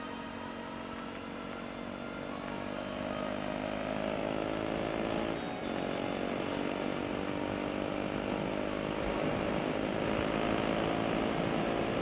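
KTM 390 Duke single-cylinder engine pulling under way: its note climbs with the revs, drops briefly about five and a half seconds in as if for a gear change, then holds steady, under a steady rush of wind noise.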